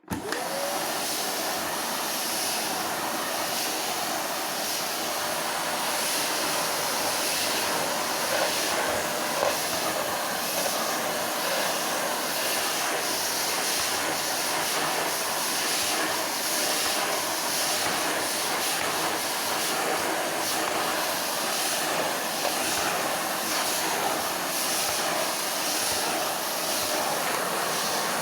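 A 700-watt Hoover vacuum cleaner switching on and running: the motor spins up at once into a steady, loud rushing hiss of air and motor that holds even.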